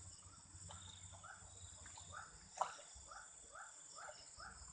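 Crickets trilling in a steady, high-pitched chorus. Over it comes a series of about six short calls repeated roughly twice a second, with one sharp click midway.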